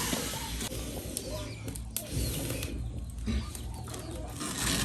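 A bird cooing, with a sharp click about two seconds in.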